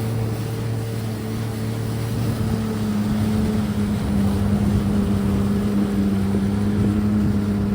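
Jet ski engine running steadily on the water, its pitch wavering and dropping slightly about five seconds in.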